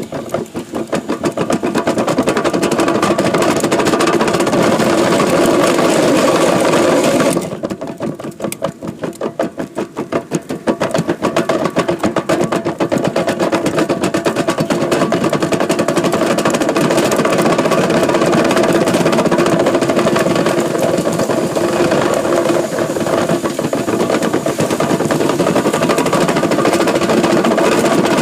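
Truck engine running under way with a rapid, even pulsing. About seven seconds in it eases to a quieter, slower throb, then builds back up and runs steadily.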